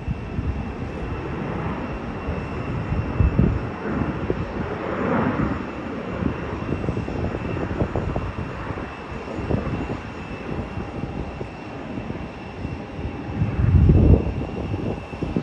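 Jet airliner engines running with a steady high whine, overlaid by wind buffeting the phone's microphone in gusts, the strongest about three seconds in and near the end.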